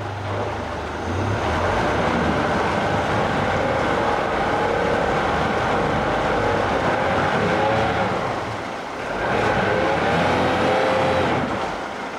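Yamaha F115 four-stroke outboard, an inline four, running in gear under light throttle. It picks up about a second and a half in and holds, eases off briefly past the middle, then rises again before dropping back near the end.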